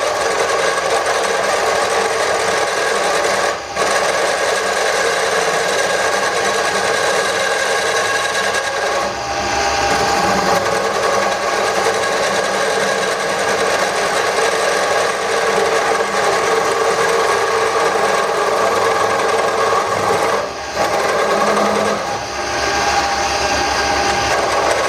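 Wood lathe spinning an ambrosia wood handle blank while a turning gouge cuts it, a loud continuous scraping cut with a few short breaks where the tool comes off the wood. The cut is very loud, which the turner puts down to the differently coloured wood in the blank.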